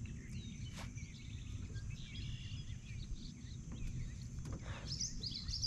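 Faint outdoor ambience: songbirds chirping and trilling over a steady low rumble, with a quick run of high rising and falling notes near the end.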